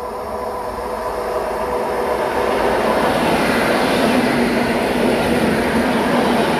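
PolRegio electric multiple unit running through the station without stopping: it grows steadily louder as it approaches, then rushes past close by with dense wheel-and-rail noise and a steady hum from about three seconds in.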